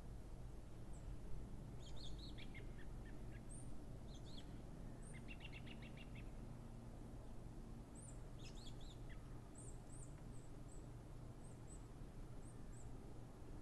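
Small birds chirping faintly, with a quick trill of repeated notes about midway and a run of short high chirps near the end, over a low steady rumble of background noise.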